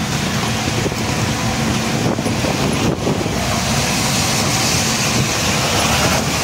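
Steady road noise of a moving vehicle, with wind buffeting the microphone.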